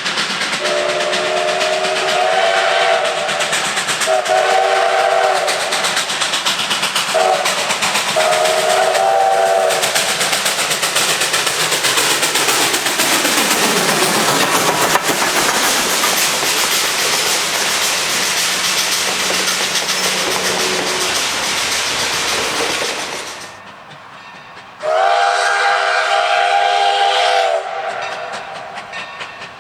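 Steam locomotive's five-chime whistle blowing the grade-crossing signal: long, long, short, long. The locomotive and train then pass close by, with a loud rushing, clattering sound and a pitch that slides down as it goes by. Near the end comes one more long whistle blast.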